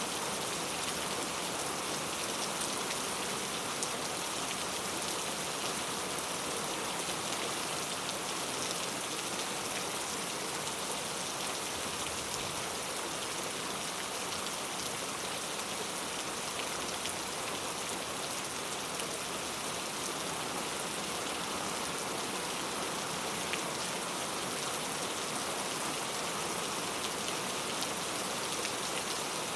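Heavy rain falling steadily, an even hiss of drops hitting hard surfaces with scattered individual drop ticks.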